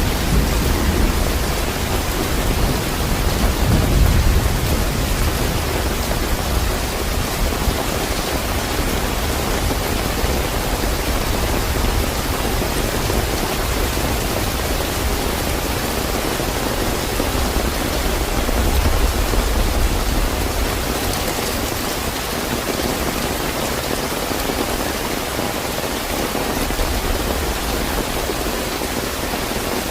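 Steady heavy rain falling, with low rumbles of distant thunder swelling about four seconds in and again past the middle.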